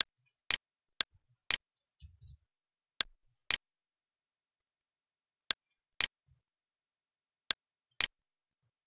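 A series of sharp, dry clicks falling on an even half-second beat, in runs of two to four with pauses between, with short faint high chirps around some of them and dead silence in the gaps.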